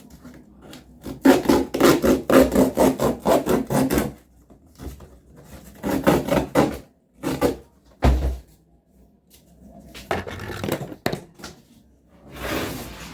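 Small serrated knife sawing through cardboard in runs of quick back-and-forth strokes, with pauses between them and a dull thump about eight seconds in.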